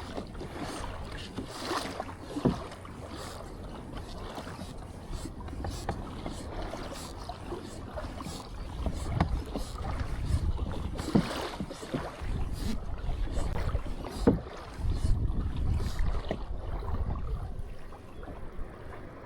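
Water splashing and lapping around a kayak, with brief knocks and splashes scattered throughout, over a low wind rumble on the microphone that grows louder through the middle stretch.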